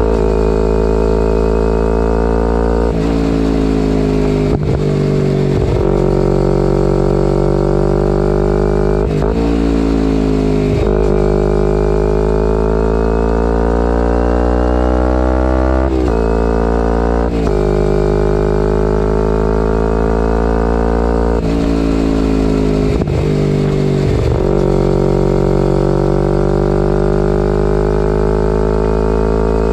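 2011 Kawasaki Ninja 250R's parallel-twin engine through a full Graves race exhaust, under way: the revs climb and then break and drop at each gear change, several times over. The longest pull comes about halfway through, a slow rising note.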